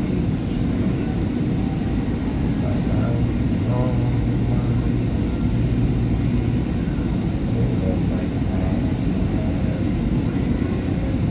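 Steady rumble inside a SEPTA Market-Frankford Line subway-elevated train car, with a low hum rising out of it in the middle, and faint passenger voices in the background.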